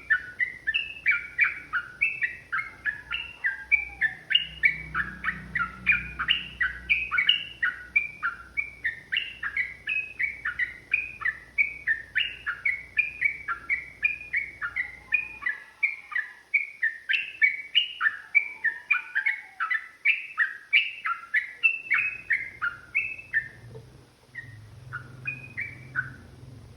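Yellow-vented bulbul (trucukan) singing a long, fast run of short chattering notes, several a second. The run breaks off about 23 seconds in, leaving a few scattered notes.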